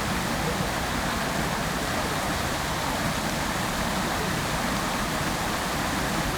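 Fountain water falling and splashing continuously, a steady even rush.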